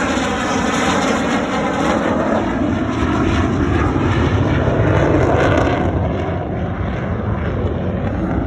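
F-35 Lightning II's single F135 turbofan engine, a loud jet rumble and rush as the fighter makes a slow pass. The upper hiss drops away about six seconds in as it moves off.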